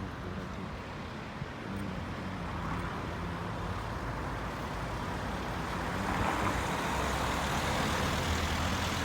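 Road traffic noise, a steady rumble that swells louder about six seconds in, as with a vehicle approaching.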